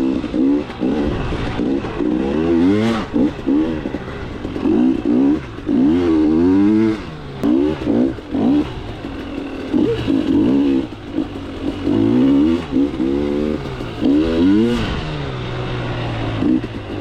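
KTM 300 two-stroke dirt bike engine revving up and down under throttle while riding, its pitch rising and falling every second or two.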